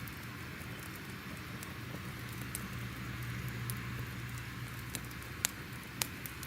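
Crackling fire: a steady hiss over a low rumble, with scattered sharp pops, two louder ones near the end.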